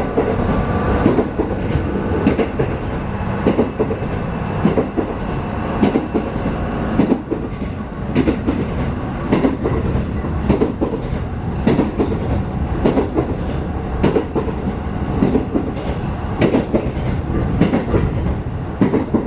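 Running noise heard from inside a JR Hachinohe Line diesel railcar: a steady rumble with wheels clicking over rail joints at irregular intervals.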